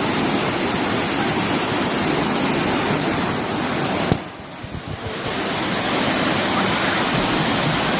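Waterfall rushing: a steady, loud roar of falling water. About four seconds in there is a click, and the roar drops for about a second before coming back.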